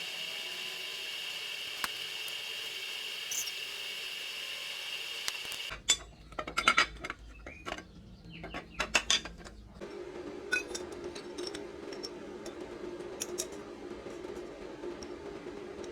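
Metal tools and parts clinking and knocking in a cluster of sharp strikes about six to ten seconds in, between stretches of steady machine noise: a hiss with a high steady tone first, a low hum after.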